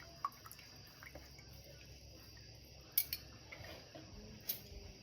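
Faint drips of liquid with a few sharp light clicks, one about a quarter second in, one about three seconds in and one near the end.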